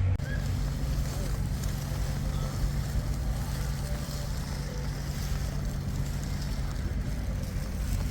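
Steady low rumble of an idling engine, with wind noise buffeting the microphone.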